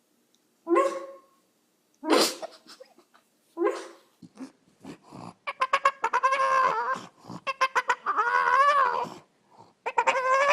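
A dog vocalizing: three short separate calls, then from about halfway longer calls that waver up and down in pitch, like the dog answering back.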